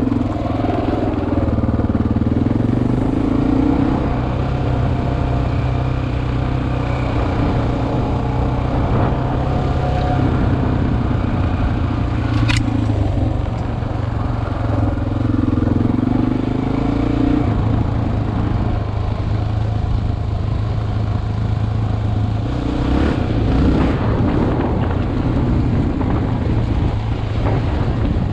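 Single-cylinder four-stroke dual-sport motorcycle engine running under way, heard from a helmet-mounted camera, its note swelling and easing a few times with the throttle. There is one sharp click about twelve seconds in.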